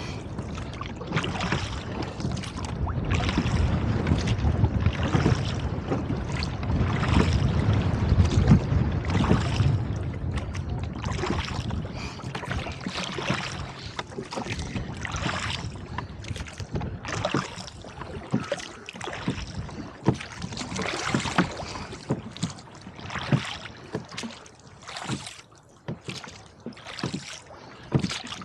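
Rowboat under oars in gusty wind: wind rumbles on the microphone, heaviest in the first half. Water splashes and slaps against the hull in a rough rhythm of about one stroke every second or two.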